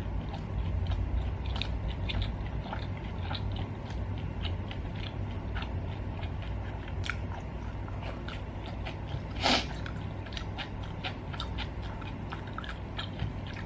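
A person chewing meat close to the microphone, with irregular wet mouth clicks and smacks. One louder, brief noise comes about nine and a half seconds in.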